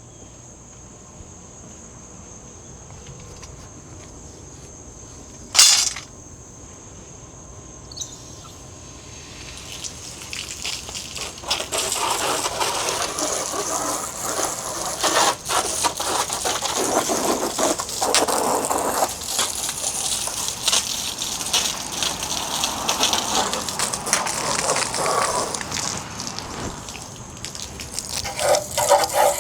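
Crickets chirring steadily, with a single sharp click about six seconds in. From about ten seconds a loud, uneven rush of running water takes over, fitting warm water being run for the wash.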